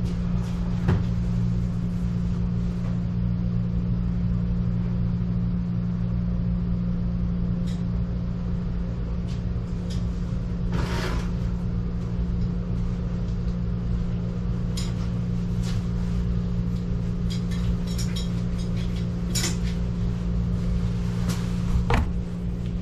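Steady low electrical or machine hum, with scattered light clicks and a short hiss about eleven seconds in.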